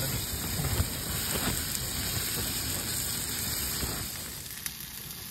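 Onions sizzling as they fry in a small wok over a portable gas stove, with a brief knock a little under a second in. The sizzle quietens noticeably a little after four seconds in.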